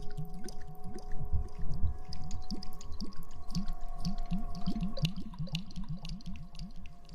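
Close-miked wet squishing and rustling of hair being washed, many quick squelches a second, with faint steady tones underneath.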